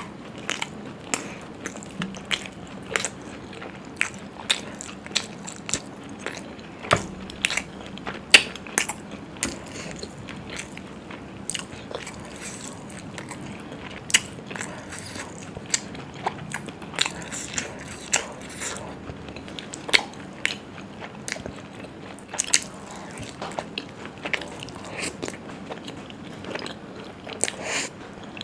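A person biting and chewing food close to the microphone: irregular wet smacks and crunchy clicks, several a second.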